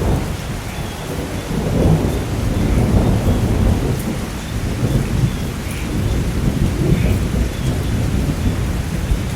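Thunder rumbling and rolling over steady heavy rain, swelling to its loudest a few seconds in.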